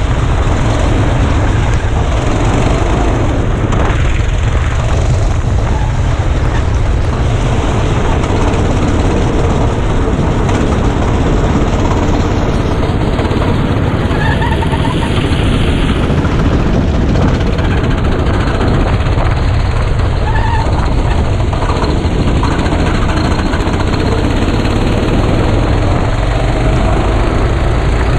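Go-kart engine running continuously at speed, heard from an onboard camera mounted on the kart, with heavy wind noise on the microphone.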